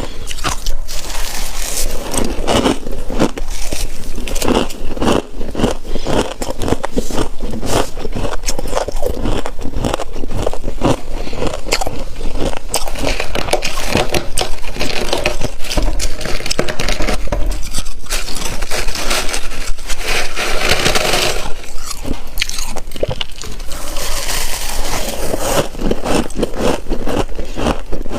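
Freezer frost being bitten and crunched close to the microphone, in a dense, continuous run of crisp crunches mixed with scraping.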